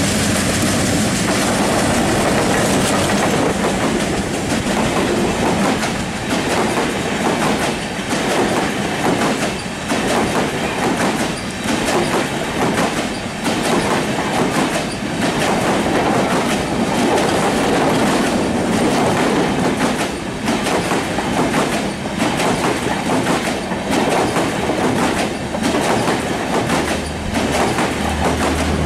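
Diesel-hauled passenger express train passing close by: the locomotive comes past first, then a long string of coaches rolls by with the steady clickety-clack of wheels over rail joints.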